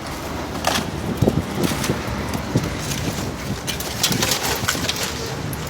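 Wind rumbling on the microphone, with scattered knocks and crackling rustles.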